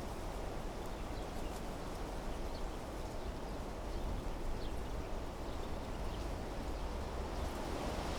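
Wind blowing steadily through trees and bushes, a dense rush with a low rumble underneath, with faint, brief bird chirps scattered through it.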